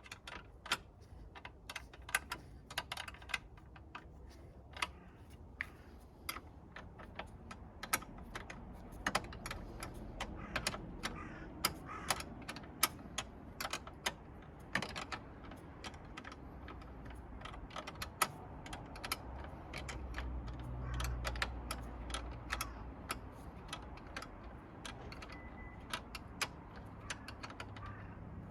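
Many irregular small clicks and taps of hand work on a car battery swap, such as tools and terminal parts being handled. A low rumble swells briefly about twenty seconds in.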